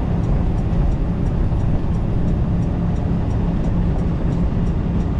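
Steady low drone of a semi-truck's diesel engine and road noise inside the cab at low speed, with a faint regular ticking over it.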